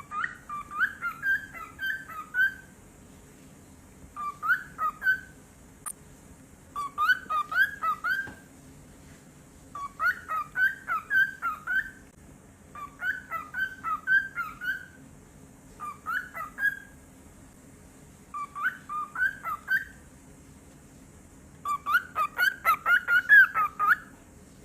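Cockatiel chirping in about eight bursts of rapid short notes, each burst one to three seconds long with short pauses between; the last burst is the longest.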